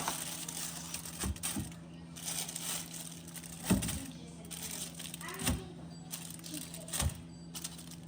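Scattered knocks and crinkly rustling of things being handled and wiped while cleaning, over a steady low hum.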